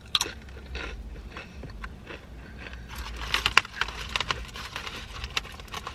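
Close-up crunching and chewing of a tortilla chip, a run of short crackly bites. About three seconds in the crackling thickens as the foil-wrapped burrito is handled.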